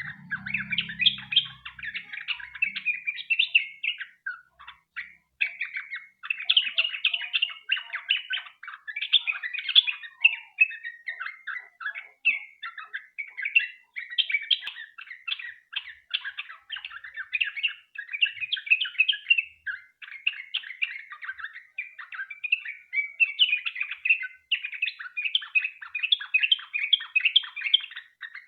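Sooty-headed bulbul (trucukan) singing in full song: a long, continuous run of fast chattering, warbling phrases with only brief pauses.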